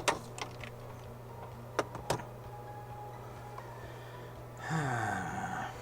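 A few sharp clicks and taps of small hand tools and wire being handled at a workbench, over a steady low electrical hum. Near the end comes a short breathy sound about a second long, falling in pitch.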